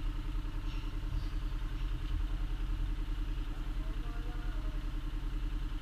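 Bobcat excavator's diesel engine running steadily with a regular low pulsing.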